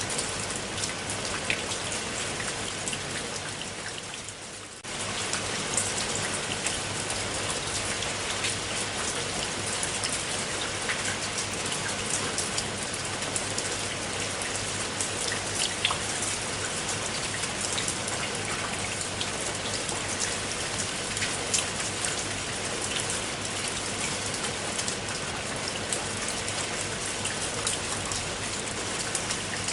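Steady rain with many individual drops striking a surface. The sound fades briefly about four seconds in and comes back abruptly a second later.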